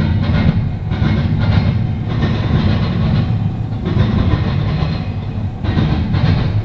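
Intermodal freight train rolling past: a loud, steady low rumble of wheels on rail with repeated clacking as the cars' wheels cross rail joints.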